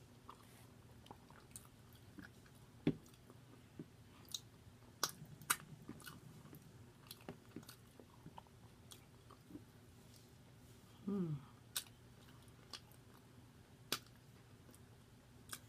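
A person chewing and biting into a cheese slider and fries, with scattered faint wet smacks and clicks of the mouth. There is one brief falling vocal sound about eleven seconds in.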